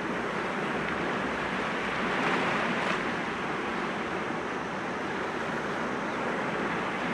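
Sea waves breaking gently against rocks: a steady wash of surf that swells a little about two seconds in.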